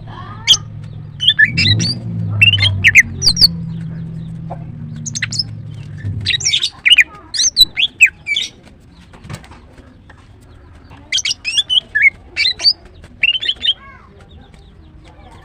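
Female greater green leafbird calling in quick clusters of short, sharp chirps with pauses between them, the kind of call a female makes to draw males. A low steady hum underlies the first half and stops about halfway through.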